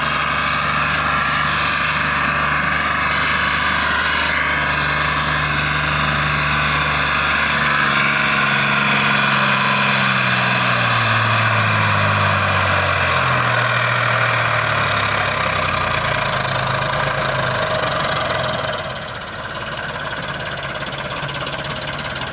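Tractor engine running hard, steady at first, then its pitch sinks over several seconds around the middle as the engine lugs down. Near the end the sound drops somewhat quieter.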